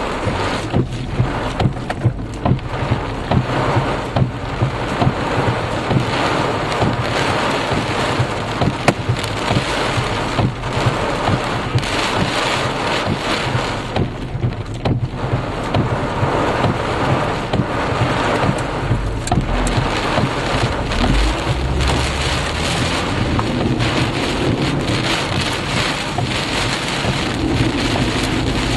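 Heavy wind-driven rain pounding a moving car and its windshield, heard from inside the cabin, as a steady loud rush with a low engine and road drone underneath. This is the rain wrapping a nearby tornado.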